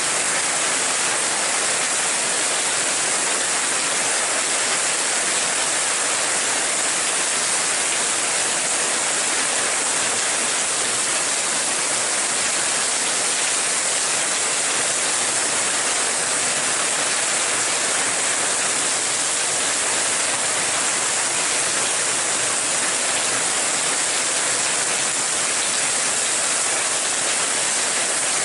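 Rain falling steadily: an even, unbroken hiss with no let-up or individual drops standing out.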